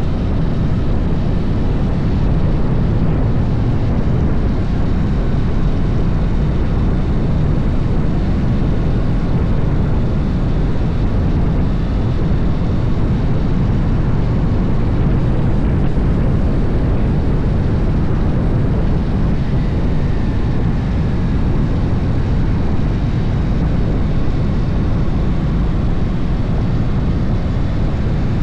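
Harley-Davidson motorcycle riding at speed: a steady, loud rush of wind and road noise with the engine running underneath, unbroken throughout.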